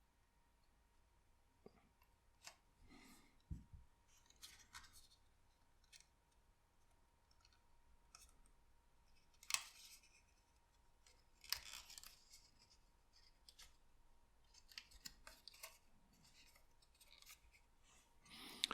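Sparse, faint sounds of hands working a paper craft model: paper crackling and small clicks, with two louder ones about nine and a half and eleven and a half seconds in.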